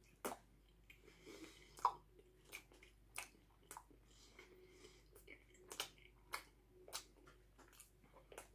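A person biting off a mouthful of a chicken burrito and chewing it with the mouth closed: faint wet clicks and smacks of the jaw and lips, roughly every half second.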